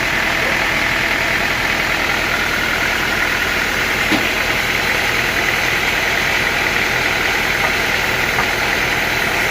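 Sawmill machinery running steadily, a continuous loud engine-driven drone that does not change.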